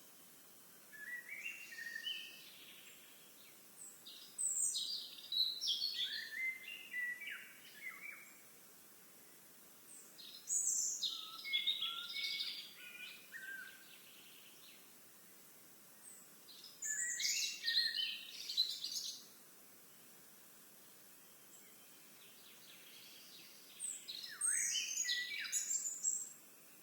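A songbird singing the same complex, varied song about five times, each song two to three seconds long with pauses of a few seconds between.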